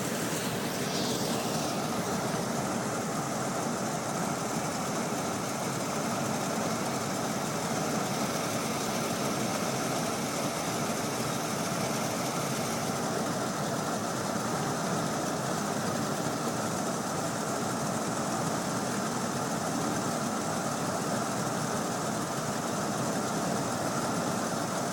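1981 Buick Electra 225's 4.1-litre carbureted V6 idling steadily.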